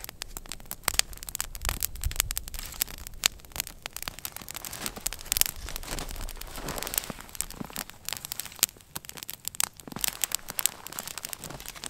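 Wood fire crackling, with many irregular sharp snaps and pops from burning dry wood and a soft hiss of flame around the middle.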